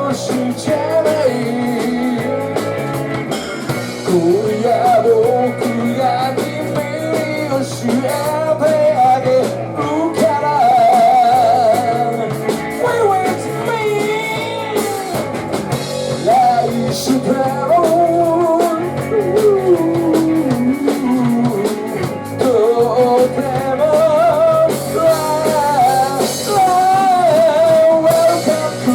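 Rock band playing live: a singer over guitar and drums, with a wavering melody line throughout.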